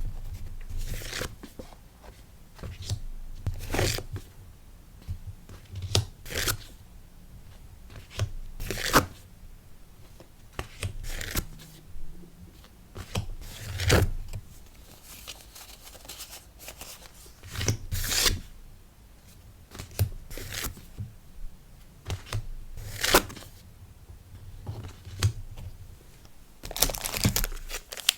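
Hands packing a sticker order: paper and plastic packaging handled, with irregular tearing and crinkling sounds every second or two.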